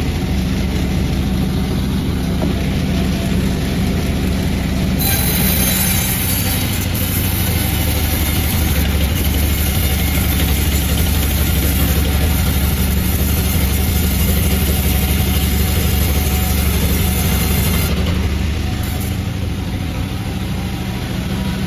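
Panda36 chainsaw running steadily at speed. From about five seconds in until a few seconds before the end it takes on a brighter, hissier edge as it cuts through jackfruit wood.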